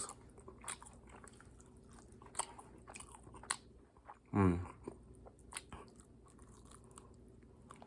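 Close-up chewing and crunching of sauce-glazed Korean fried chicken wings, the crunchy battered skin cracking in scattered clicks between the teeth. About halfway there is one short vocal 'mm'-like sound.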